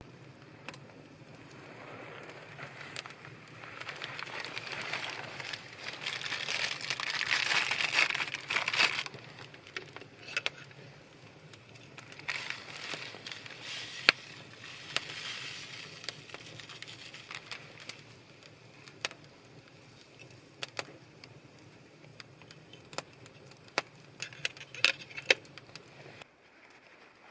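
Irregular crackles and sharp pops, with a rustling rush that swells twice, strongest about a quarter of the way in.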